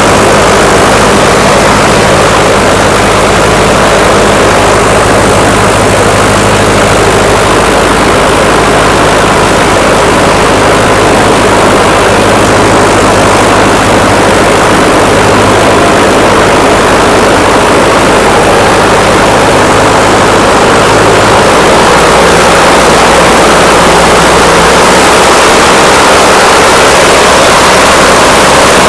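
Piston aircraft engine and propeller running steadily on a first ground run after a fuel-injection conversion, being left to warm up. The engine note changes near the end.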